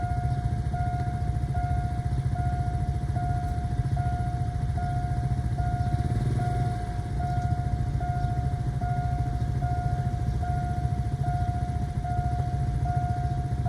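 Railway level-crossing warning signal sounding an electronic tone that repeats evenly a little over once a second, over the steady low rumble of a train.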